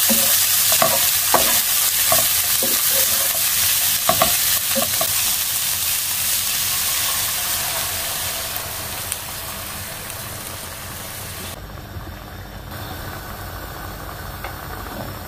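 Sliced mushrooms and olives sizzling in oil in a non-stick frying pan, with a spatula scraping and knocking against the pan during the first few seconds. The sizzle gradually dies down as double cream goes in, and about twelve seconds in it gives way to a quieter, lower bubbling of the simmering cream sauce.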